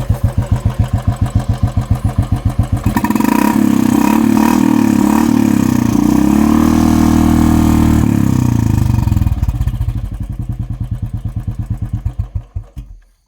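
Royal Enfield single-cylinder engine running through an aftermarket short-bottle silencer with two baffle filters: a steady idle thump, revved and held higher for about six seconds from about three seconds in, then back to idle, the thumps slowing and stopping near the end.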